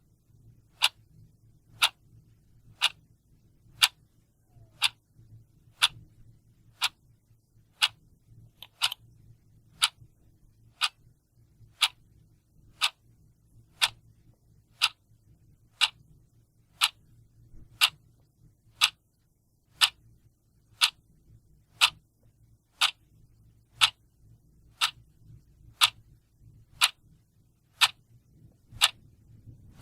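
A clock ticking at an even one tick per second, each tick a short, sharp click.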